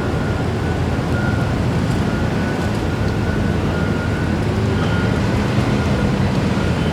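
Steady low rumble of a large ship's diesel engines, mixed with wind rush on the microphone.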